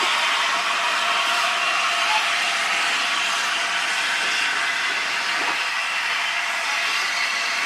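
Steam locomotive letting off steam: a loud, steady hiss with no engine beat underneath.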